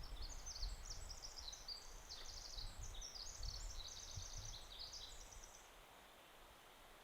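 Small birds chirping: a run of quick, high trills at shifting pitches for about five and a half seconds, over a faint low rumble of wind.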